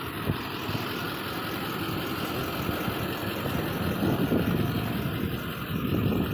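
A truck engine idling steadily with a low rumble.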